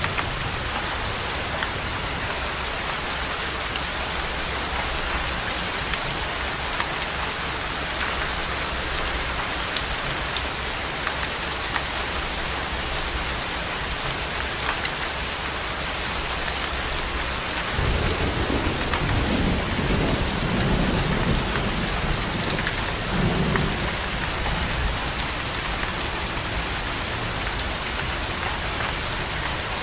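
Steady rain falling, an even hiss with scattered drop ticks. A low rolling rumble of thunder comes in about eighteen seconds in and dies away some six seconds later.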